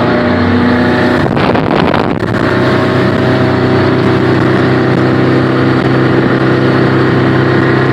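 Small motorboat's engine running steadily at high speed, with a brief rush of noise about a second in.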